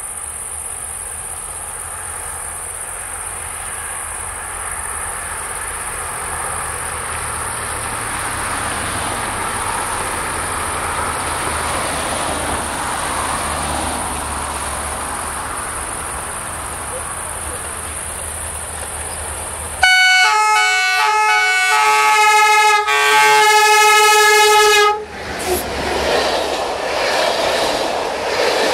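Crickets chirping over the slowly growing rumble of an approaching Electroputere diesel-electric locomotive rebuilt by General Motors, 65-0920-2, hauling an express. About two-thirds of the way in it sounds its multi-tone horn in two long blasts. Then the locomotive and its coaches rumble past close by.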